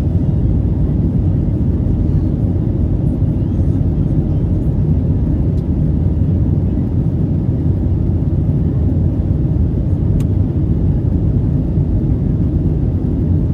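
Steady low rumble of an Airbus A321neo heard from inside the passenger cabin: engine and airflow noise, even in level throughout.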